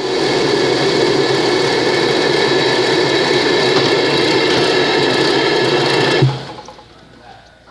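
2001 Ford Focus inline-four engine running steadily, then shut off about six seconds in, the sound dropping away suddenly.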